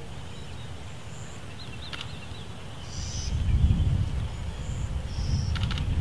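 Short, high-pitched bird calls and a brief wavering trill over a low rumble that swells about halfway through, with a few faint clicks.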